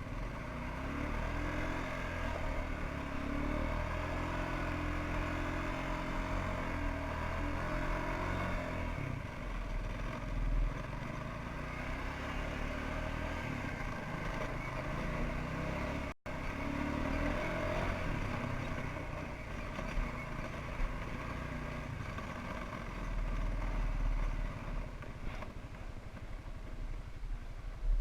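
1992 Suzuki Quadrunner 300 ATV's single-cylinder four-stroke engine running steadily while it warms up after a cold start, on choke. The sound cuts out for a moment a little past halfway.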